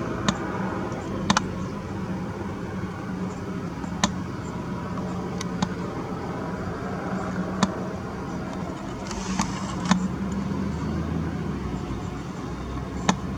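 A steady low rumble, like distant road traffic, with a faint hum, broken by about nine sharp, irregular clicks and a brief hiss about two-thirds of the way through.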